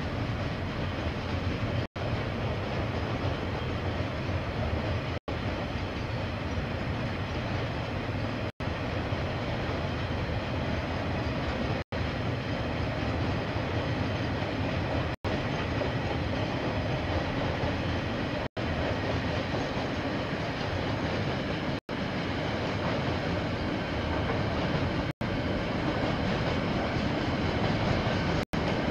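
A KiwiRail train rolling past with the steady noise of its wagons on the rails. The noise is broken by a brief silent dropout about every three seconds and grows slightly louder near the end.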